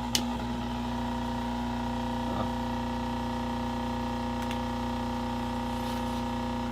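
Steady electrical hum, with one sharp click just after the start and a small brief sound about two and a half seconds in.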